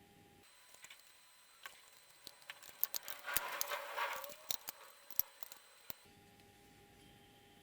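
Light clicks and taps of small hard parts being handled, thickening into a short rattle about three to four and a half seconds in.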